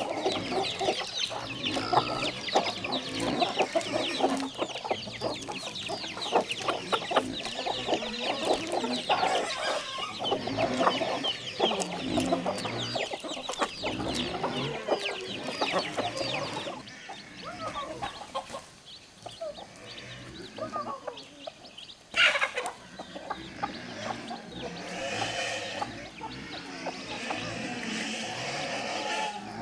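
Chickens clucking and calling, many short calls overlapping for the first half, thinning out after that. One sharp knock about 22 seconds in.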